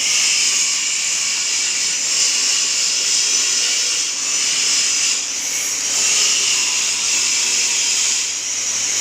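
Motorised multifunction pipe-rolling machine running as steel plate is rolled between its rollers, a steady hissing, scraping machine noise that dips briefly a few times.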